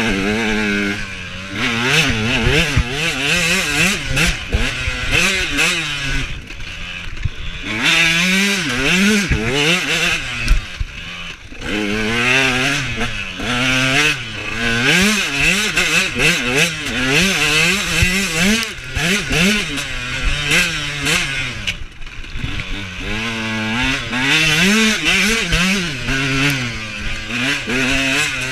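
Husaberg TE125's 125 cc two-stroke single-cylinder engine revving up and dropping back again and again under hard riding, with the throttle closed briefly a few times.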